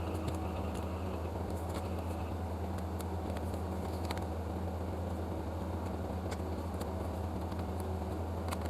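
Steady low electrical hum from running workbench equipment, with a few faint, brief clicks over it.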